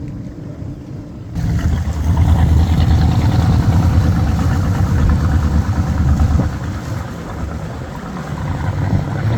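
Motorboat engine running underway with a steady low note. About a second in, a broad rush of water and air noise joins it and the whole sound gets louder, then eases and builds again near the end.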